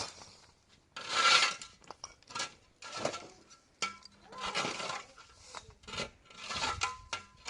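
Repeated scraping strokes, about six of them, irregularly spaced, with light clicks and knocks in between.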